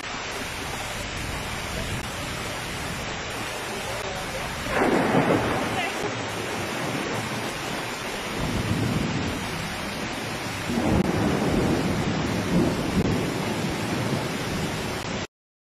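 Heavy rain pouring down, a steady rushing hiss, with two louder rumbling surges about five seconds in and about eleven seconds in; the sound cuts off suddenly near the end.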